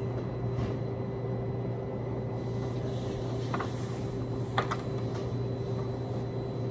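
Steady low hum of running laundry machines, with two short knocks about a second apart in the middle.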